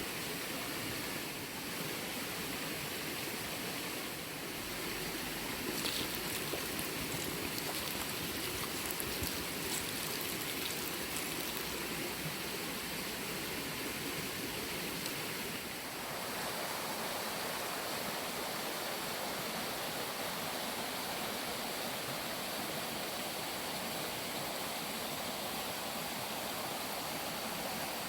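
Steady rushing outdoor noise, even and unbroken, that changes character abruptly about sixteen seconds in.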